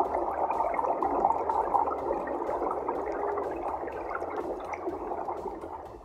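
Underwater bubbling and gurgling water, a steady rush that fades out near the end.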